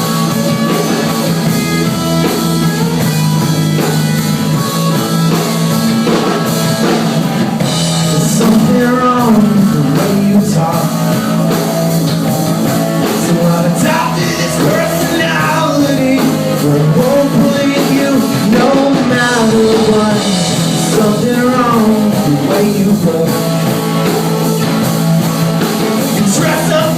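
Live rock band playing a song with electric guitars and a drum kit, with a wavering melody line over the chords.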